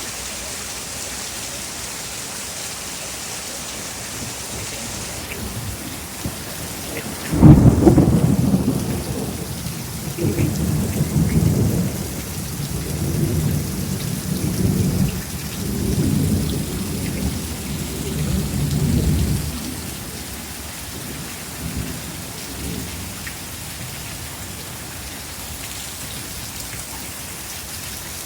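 Steady rain falling throughout. About seven seconds in, a sudden loud thunderclap breaks out and rolls on in several deep swells for about twelve seconds before dying away under the rain.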